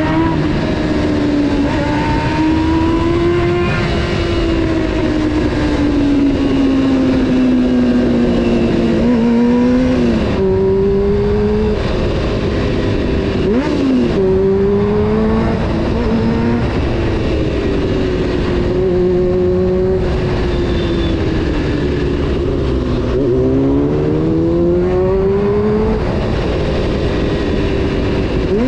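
Honda CBR 600 F4's inline-four engine heard from the rider, rising and falling in pitch as the bike is revved and eased off, with several abrupt jumps in pitch at gear changes. A low rush of wind and road noise runs underneath.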